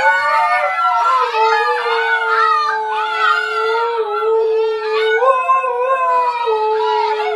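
Dogs howling together in long, drawn-out overlapping notes. One voice holds a steady lower note while higher ones waver above it.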